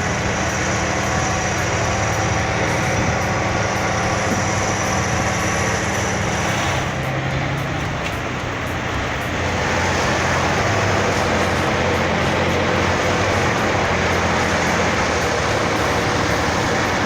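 Heavy diesel tractor engines running hard under load, the engine note shifting about seven seconds in and again a few seconds later.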